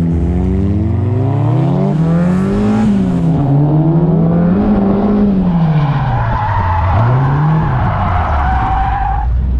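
Car engine revving up and down repeatedly through a drift, with tyres squealing from about six seconds in until shortly before the end.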